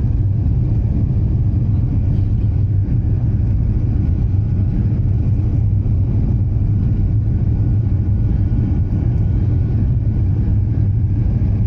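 Steady low rumble heard inside the cabin of an Airbus A350-900, the engines and airframe running evenly with no change in pitch or level.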